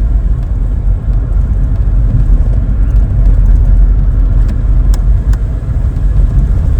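Steady engine and road rumble inside the cabin of a 1992 Vauxhall Cavalier with a 2-litre four-cylinder (C20NE) engine, being driven along. Two light clicks about five seconds in.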